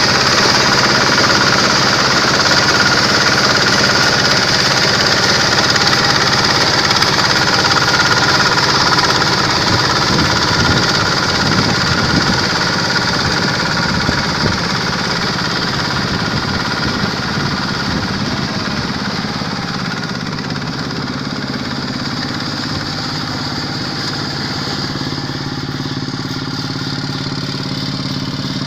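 Diesel engine of a Quick H-140R combine harvester running steadily, growing gradually quieter over the second half.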